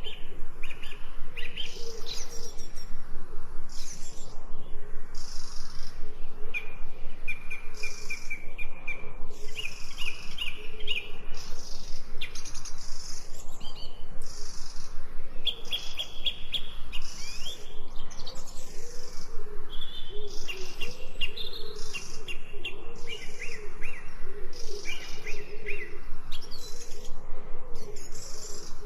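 Wild birds chirping and singing, with short repeated notes and quick trilled phrases overlapping throughout.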